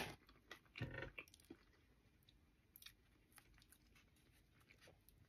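Faint chewing of a mouthful of breaded chicken sandwich on a soft bun, with small wet mouth clicks. The sounds are slightly louder about a second in.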